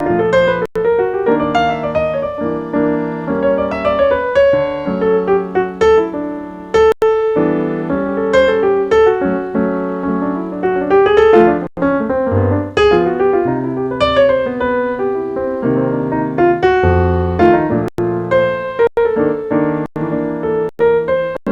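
Piano playing jazz: a busy run of chords and melody notes over a moving bass line.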